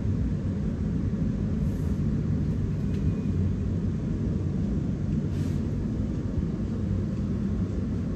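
Steady low rumble heard inside the carriage of a Melbourne Metro electric suburban train as it runs into a station.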